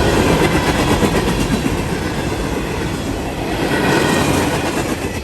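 CSX local freight train rolling past, its steel wheels clattering over the rail joints with a steady, loud rumble.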